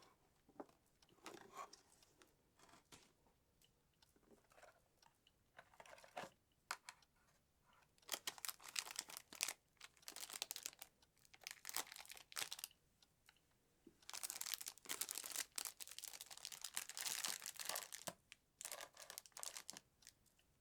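Packaging of sweets being crinkled and torn open in bursts of crisp rustling, loudest in two stretches from about eight and about fourteen seconds in, with small clicks and taps between.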